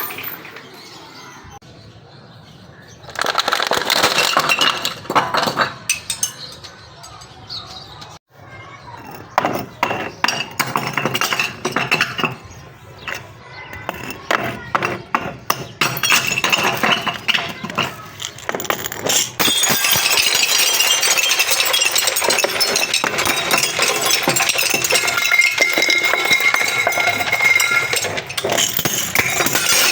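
Glass bottles breaking: repeated crunching and cracking with shards clinking, broken into separate crunches at first, then a dense, continuous crackle of crushing glass about two-thirds of the way in.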